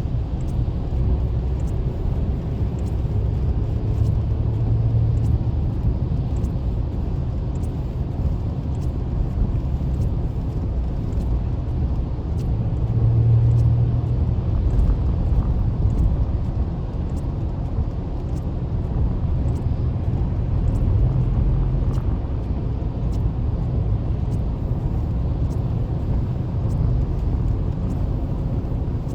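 Car driving on a rain-wet highway, heard from inside the cabin: a steady low rumble of engine and tyres that swells twice, with a faint regular ticking about once a second.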